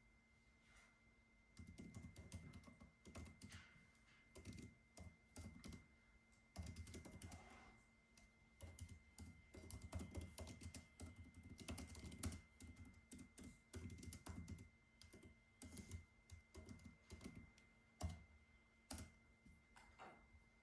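Typing on a computer keyboard: irregular runs of quick key clicks with short pauses between them, starting about a second and a half in. A faint steady whine runs underneath.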